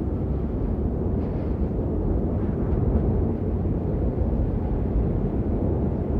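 Steady rain, a dense, even noise with most of its weight low down and little high hiss.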